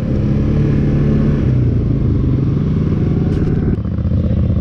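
Dirt bike engine running steadily under way on a trail, a low, even engine note. A little before the end the sound changes abruptly to a different engine sound.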